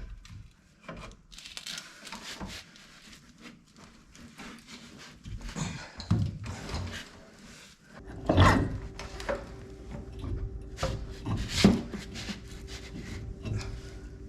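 Metal parts and tools being handled on a workbench: scattered knocks, clicks and rubbing. A steady low hum joins about eight seconds in.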